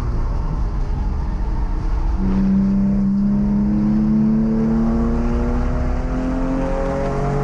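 Porsche 997's flat-six engine heard from inside the car. It comes off the throttle as the car slows for a corner, then pulls under acceleration with a slowly rising note from about two seconds in, and drops in pitch with an upshift near the end.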